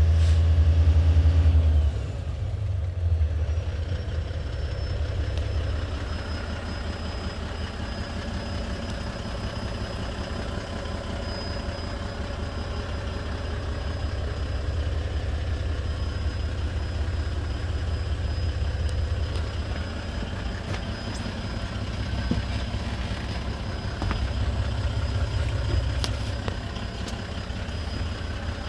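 Diesel engine of a 2016 Volvo VNL semi tractor running, louder for about the first two seconds and then settling to a steady idle with an even low rumble. A faint, steady high whine runs over it from about four seconds in.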